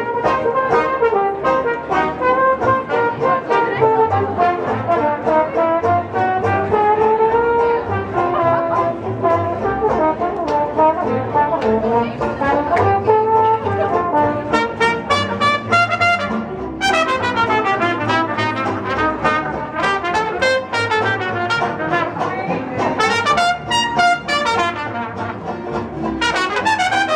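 Live brass band playing jazz, several horns together holding and sliding between notes, getting brighter and louder about halfway through.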